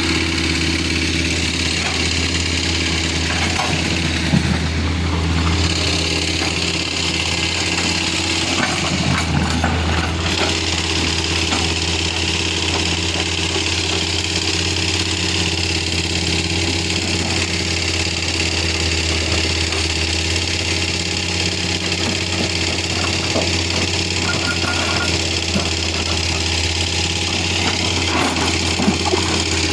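Engines running steadily at a low idle, giving a constant low hum, with a few light knocks here and there.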